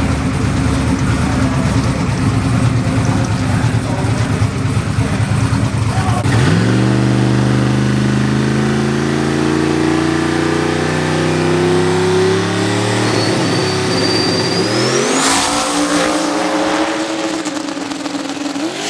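Drag car engine at high revs, after a rough rumble in the first few seconds. About six seconds in the pitch jumps up and climbs steadily through a long pull. Near fifteen seconds there is a sudden change to a lower steady note, and a thin high whistle rises just before it.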